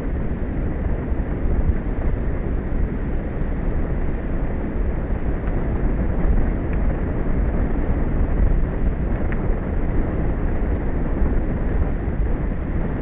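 Wind buffeting the microphone: a steady low rush of noise with no breaks.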